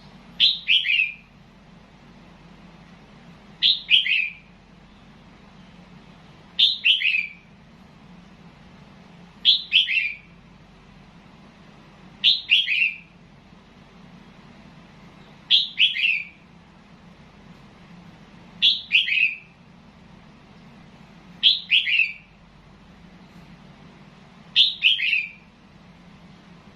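Red-whiskered bulbul singing the same short phrase over and over, about every three seconds: each phrase is a quick run of a few falling whistled notes lasting well under a second, nine in all.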